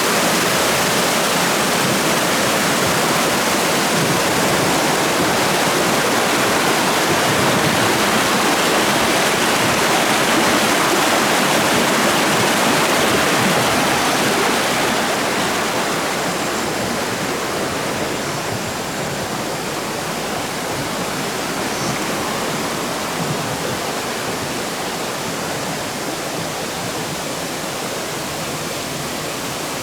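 Shallow river water rushing steadily over rocks and small cascades. The rush eases a little about halfway through.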